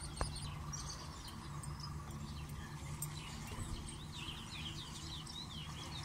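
Small birds chirping in quick series of short, falling chirps, busiest in the second half, over a steady low background hum.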